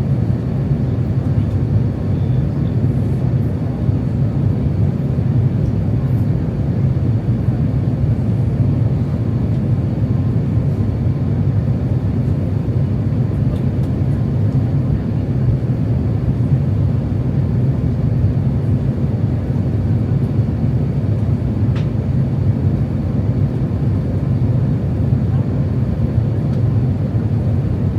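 Steady low drone of cabin noise aboard an Airbus A350-900 on approach, the engines and airflow blending into an even rumble.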